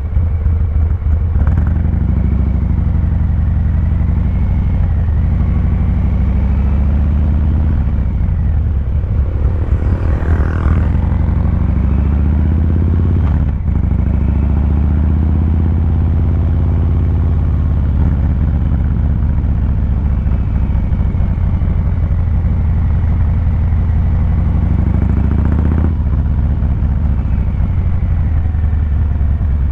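Harley-Davidson Fat Boy 114's Milwaukee-Eight V-twin running steadily at low revs through its exhaust, the pitch drifting only gently up and down. About ten seconds in there is a brief, louder hissing swell, and a few seconds later a single sharp click.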